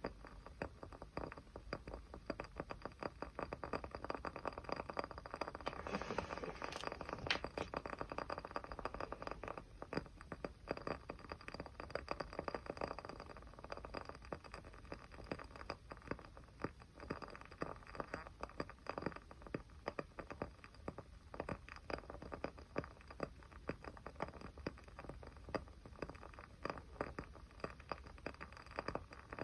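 Small fire crackling: a dense, irregular stream of sharp little pops and ticks over a soft steady hiss.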